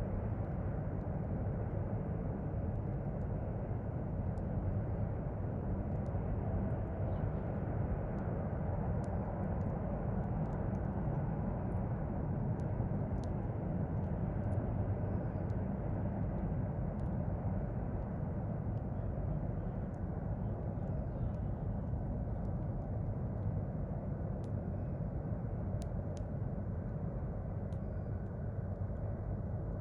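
A steady low rumble, with sparse sharp crackles from a wood fire and a few faint bird chirps.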